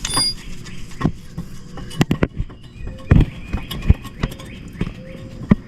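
Metal tools and engine parts clinking and knocking as they are handled, in scattered sharp taps with brief metallic ringing. The loudest knock comes about three seconds in.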